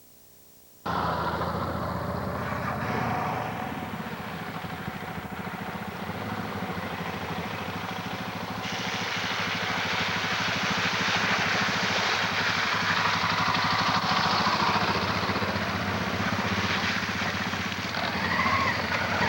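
Dual-sport motorcycle engine running steadily while riding, with a broad hiss over it. The sound cuts in abruptly about a second in, and the hiss gets louder about nine seconds in.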